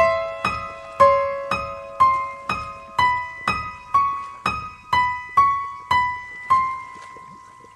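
Eerie piano melody of single struck notes, about two a second, each dying away. It ends on a note left ringing from about six and a half seconds in.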